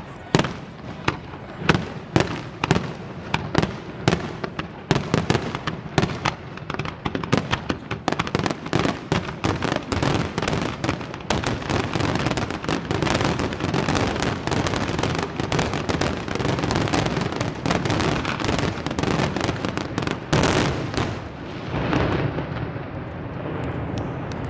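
Aerial fireworks display: a rapid run of shell bursts, bangs and crackling. The bangs come faster and merge into a near-continuous barrage through the middle, then thin out near the end.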